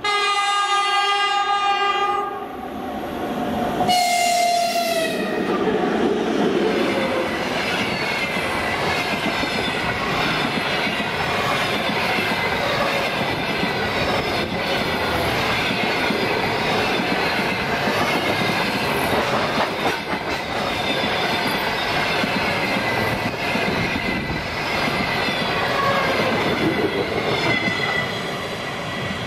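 A 2ES4K electric locomotive sounds its horn in a steady chord for about two seconds, then gives a second shorter blast about four seconds in that drops in pitch as it passes. After that the passenger coaches run past with a loud, steady rumble of wheels on rails.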